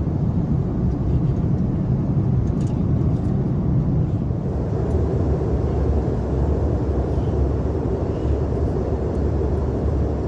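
Steady low rush of cabin noise inside an Airbus A330-900neo airliner in flight: airflow and engine noise, even and unchanging.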